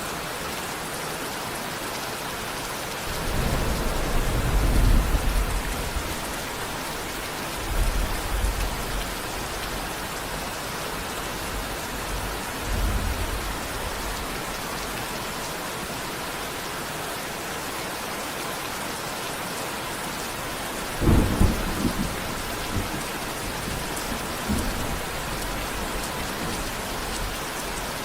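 Steady rain falling, with several rolls of thunder. A long low rumble comes a few seconds in, shorter ones follow, and a sharper, louder rumble comes about three-quarters of the way through.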